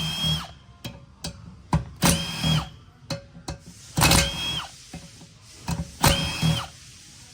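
Cordless impact tool spinning out the small 8 mm bolts of a 6L80 transmission pump cover through a chrome socket: four short bursts about two seconds apart, each a motor whine that drops as it stops, with light clicks between them.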